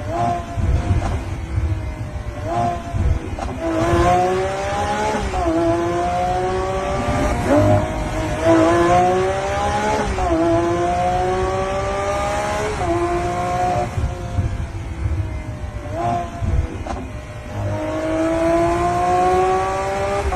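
Italian sports car engine driven hard, its pitch climbing and falling over and over with abrupt jumps at each gear change.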